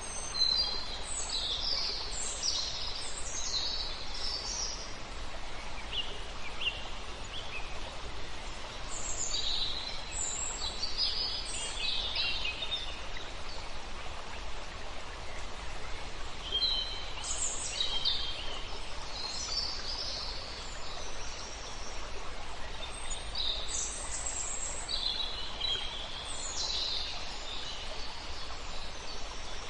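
Songbirds singing in bursts of quick, high chirps and trills over the steady rush of a flowing river.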